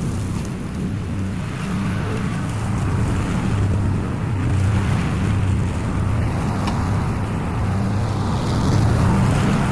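A small gasoline engine running steadily, with a constant low hum.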